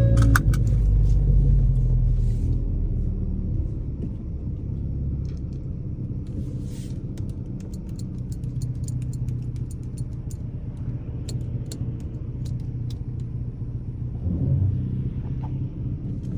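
Ford Focus ST's turbocharged four-cylinder with an AWE axle-back exhaust coming off a pull and settling to a steady low rumble at light throttle. Faint scattered ticks come in the middle, and the revs pick up briefly near the end.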